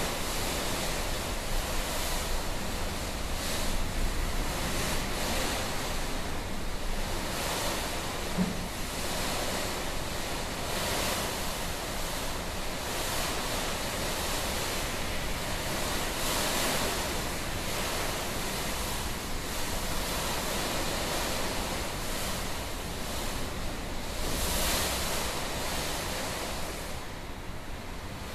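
Typhoon winds blowing hard in gusts that swell and ease every few seconds, with rushing noise from the storm.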